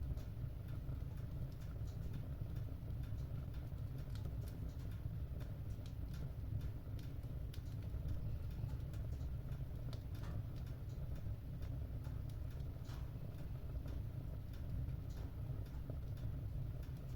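Wood fire burning in a fireplace: scattered small crackles and pops over a steady low rumble.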